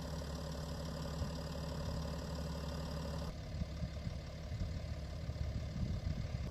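BMW X5 30d's three-litre straight-six diesel idling steadily. A little over three seconds in, the sound changes abruptly: the hiss drops away and low, irregular thumps take over.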